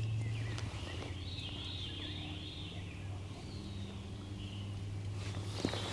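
Songbirds chirping and warbling in the woods at dawn, with a steady low hum underneath and a single sharp click near the end.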